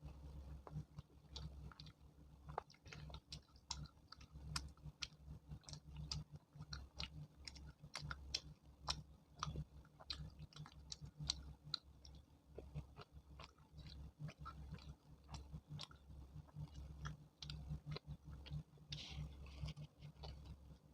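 A person chewing and eating chole bhature, with many short irregular wet mouth clicks and smacks.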